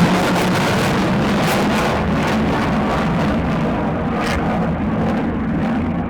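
F-35 fighter jet's Pratt & Whitney F135 turbofan roaring after takeoff, with a crackly edge, fading gradually as the jet climbs away.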